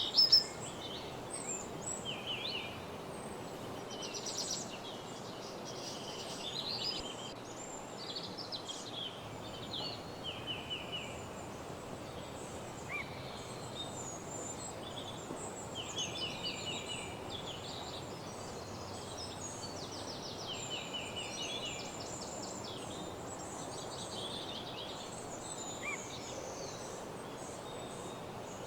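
Several songbirds singing in woodland: overlapping short, high chirps and rapid trills repeating throughout, with one loud call right at the start, over a steady background hiss.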